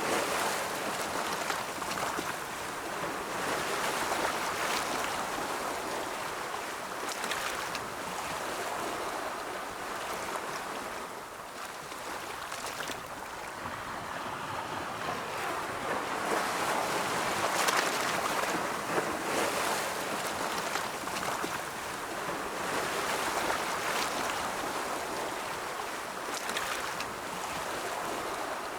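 Ocean waves breaking and washing in, a continuous rushing noise that swells and eases every few seconds.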